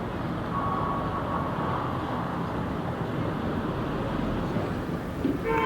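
Steady city street traffic noise, a continuous low rumble of passing vehicles, with a faint thin tone about a second in and a short pitched sound right at the end.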